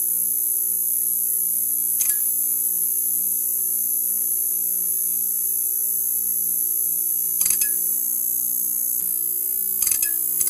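Neon sign buzzing: a steady low hum with a constant high-pitched whine over it, broken by brief crackles about two seconds in, near the middle and near the end.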